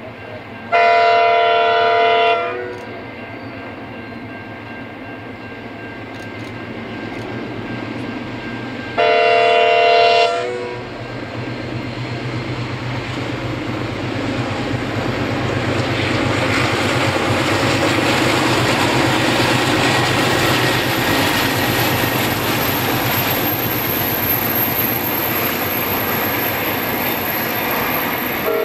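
Diesel locomotives hauling a ballast train sound their multi-note air horn in two blasts of about a second and a half, one about a second in and one around nine seconds. Then the engines and the wagon wheels on the rails grow steadily louder as the train draws near and passes. A further horn blast starts at the very end.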